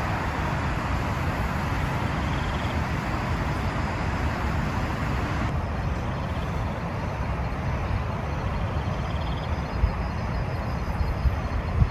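Heavy rain falling steadily, with a low rumble of wind under it. The hiss thins out suddenly about halfway through.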